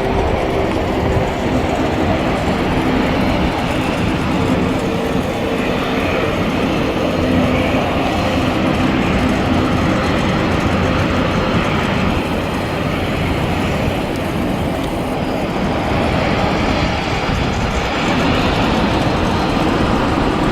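Steady, loud rumble of jet airliner engines, with a faint low hum, swelling slightly near the end.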